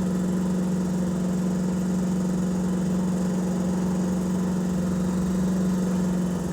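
A steady machine hum, like an idling engine or motor, holding one constant pitch without change.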